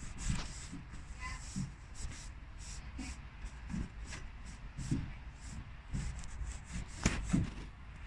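Irregular rubbing and scrubbing strokes of a hand clean on a car's engine bay surfaces, as a degreaser is worked over the plastics.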